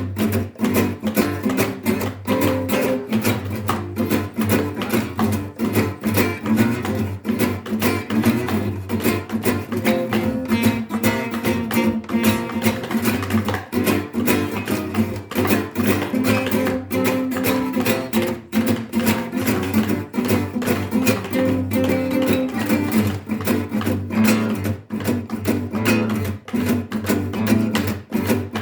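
Music: acoustic guitar strummed in a fast, steady rhythm.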